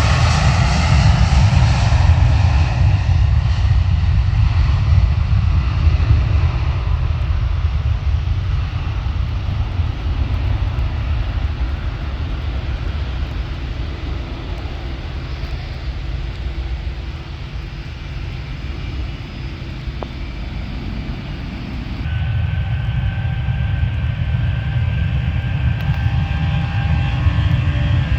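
Jet engines of a Ryanair Boeing 737 at takeoff thrust, a falling whine as it passes, then fading as it climbs away. Near the end, another jet's engines rise with a steady whine.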